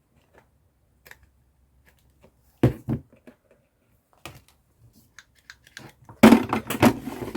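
Paper and craft materials being handled on a tabletop: scattered light clicks, a sharp knock about two and a half seconds in, then a burst of rustling and clattering near the end.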